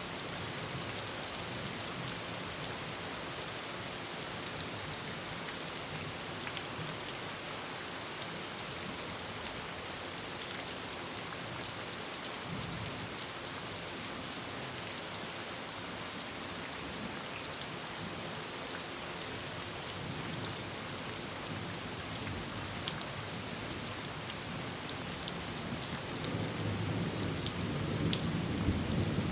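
Heavy rain falling on a tin roof: a steady, dense hiss of drops. A low rumble of thunder builds over the last few seconds.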